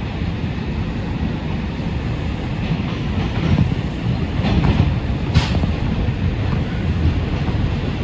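NYC Subway R142 car running between stations, heard from inside: a steady low rumble of wheels on rail, with a couple of sharp clacks about halfway through.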